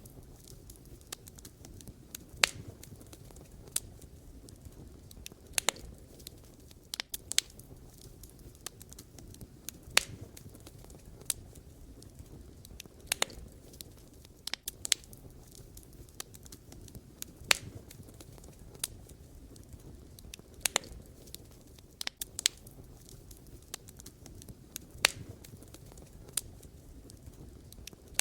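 Wood fire burning, with irregular sharp pops and crackles of firewood, a few a second, over a low steady rumble of flames.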